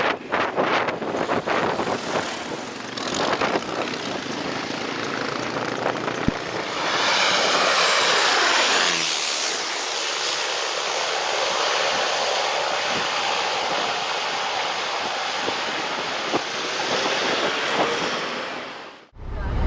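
Wind buffeting the microphone, then a small propeller plane passing low overhead on a landing approach. About a third of the way in, its engine noise swells and falls steeply in pitch as it goes by, and a steady rushing noise continues afterwards.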